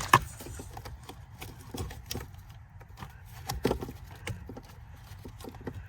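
Scattered clicks and knocks of hands rummaging among wiring harness connectors and plastic trim behind a car's dash, with a sharp click just after the start and small clusters of taps later on.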